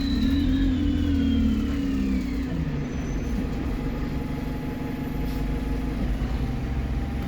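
Alexander Dennis Enviro 200 bus engine with a high turbo whistle that falls in pitch over the first two seconds or so as the engine note drops. The engine then runs on steadily.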